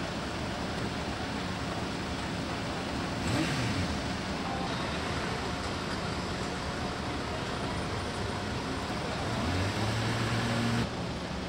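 Car engines running at low speed over a steady outdoor rumble, as cars cross a ferry ramp. About three seconds in an engine note briefly rises and falls. Near the end a steady low hum sets in and cuts off suddenly.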